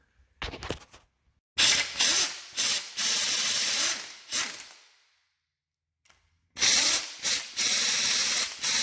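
Pneumatic ratchet running in a string of short bursts with a hiss of air, working fasteners loose on a Ford 8-inch rear end. It starts about a second and a half in, stops for over a second near the middle, then starts again.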